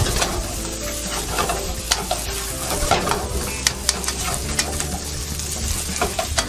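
Rice and egg sizzling in oil in a hot wok on a high flame while a spatula stirs and scrapes it, with frequent sharp scrapes and clicks of the spatula against the pan.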